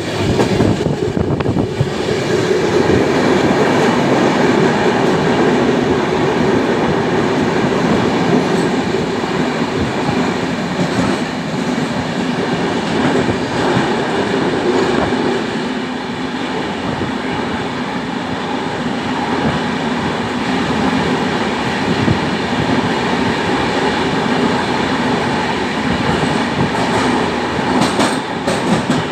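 Train running through a tunnel: a loud, steady rumble of wheels on rails with a clickety-clack, the tunnel walls closing the sound in.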